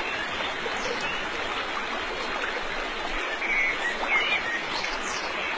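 Steady, even background noise without voices, with a few faint high chirps about three to four and a half seconds in.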